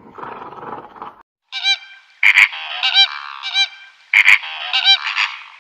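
A flock of birds giving many overlapping goose-like honking calls, starting about a second and a half in. It is preceded by a short rough, raspy sound.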